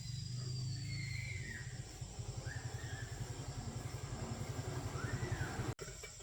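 A small single-cylinder motorbike engine running at idle, with an even low putter of roughly ten beats a second.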